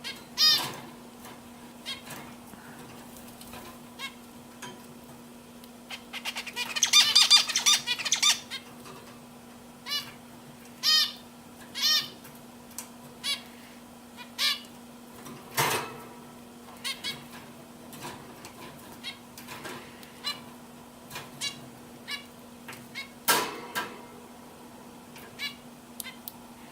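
Domestic canaries chirping with short calls every second or so, and a burst of rapid twittering song about six to eight seconds in. A steady faint hum runs underneath.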